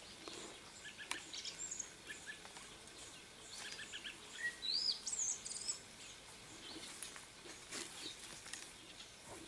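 Faint outdoor ambience with small birds chirping, including a quick whistled call that rises and falls about five seconds in, over scattered light clicks and rustles.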